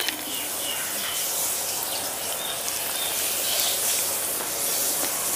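Chewing and crunching on crisp fried chicken over a steady hiss, with a few faint bird-like chirps near the start.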